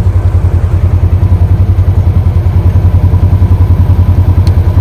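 An engine idling close by, a steady, fast, low pulsing that does not change, typical of a farm utility vehicle left running. A small click sounds near the end.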